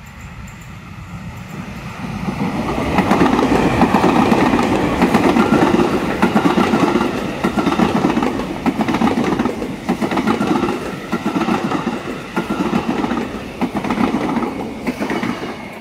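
A train passing close by at speed. It grows loud over the first couple of seconds, its wheels clattering in a rhythm over the rail joints, and it drops away near the end.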